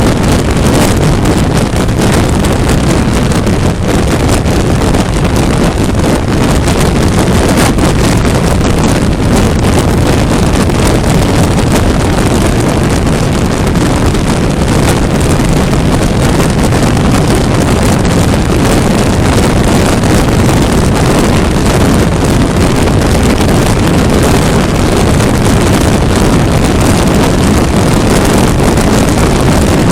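Heavy wind noise on the microphone of a 400cc motorcycle riding at highway speed, with the engine running underneath. The sound is loud and unbroken.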